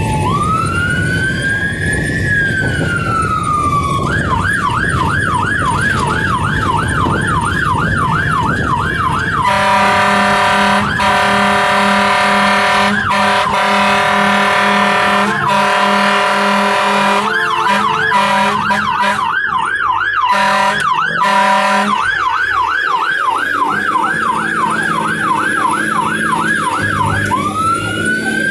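Fire engine siren running code 3, switching between patterns: a slow rising-and-falling wail, then a fast yelp, then a long steady horn blast from about ten to seventeen seconds in, more yelping, and back to the wail near the end. A low truck engine rumble runs under it.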